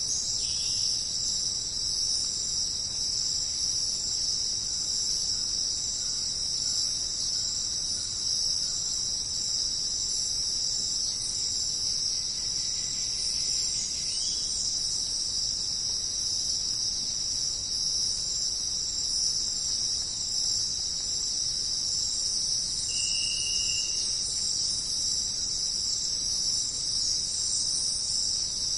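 Dense, steady chorus of rainforest insects, crickets or cicadas, shrilling high and unbroken. A few faint bird calls come through briefly, about halfway through and again near the end.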